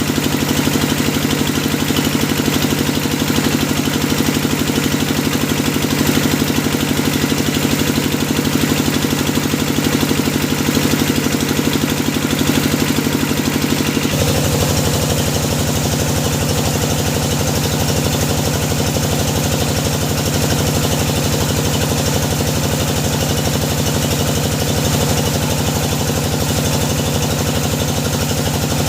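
Engine of a hydraulic deep-well drilling machine running steadily, its tone changing suddenly about halfway through.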